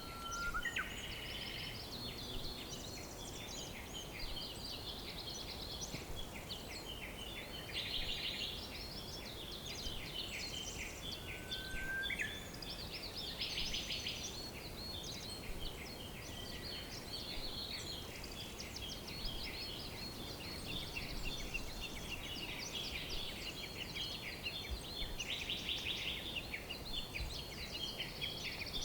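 Several songbirds chirping and trilling at once in a dense, overlapping chorus over a steady background hiss, with a lower whistled note at the start and another about twelve seconds in.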